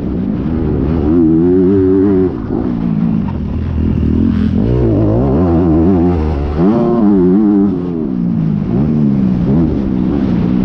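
Honda 250 four-stroke single-cylinder motocross engine heard from on board, revving up and dropping back again and again as the throttle is opened and closed.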